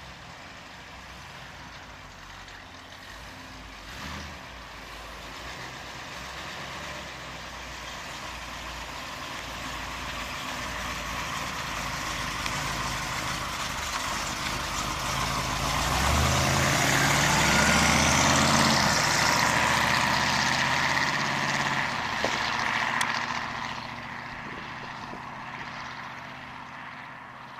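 The 1952 Chevrolet Deluxe wagon's 350 small-block V8 runs as the car drives by, growing steadily louder as it comes closer. About two-thirds of the way through the engine note rises as it accelerates past, then fades as the car drives away.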